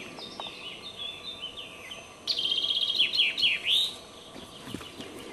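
Songbird singing: a faint twittering phrase, then about two seconds in a louder song of a rapid trill followed by several downward-sweeping notes.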